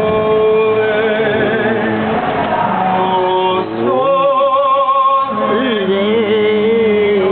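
A gondolier singing an operatic song unaccompanied, in long held notes with vibrato, rising to a higher held note about four seconds in.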